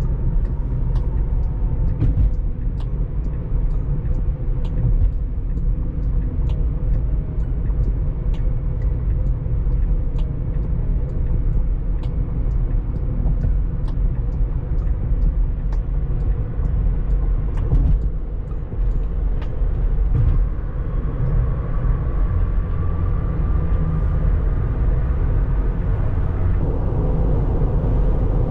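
Road and tyre noise inside a moving Tesla Model 3's cabin: a steady low rumble with scattered light ticks.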